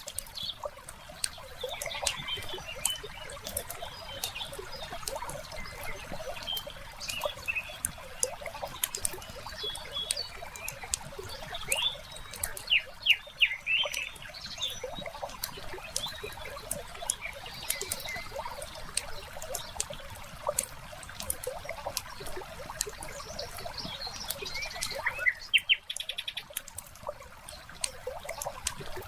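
Wood fire crackling with frequent sharp pops, mixed with birds chirping and a soft trickle of water. The bird calls are clearest about halfway through and again near the end.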